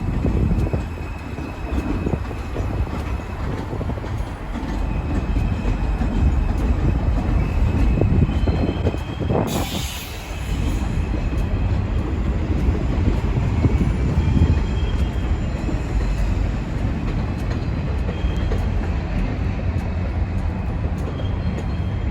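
NYC subway train running on the elevated track with a steady low rumble of wheels on rails and a faint high wheel squeal at times. About ten seconds in there is a short hiss.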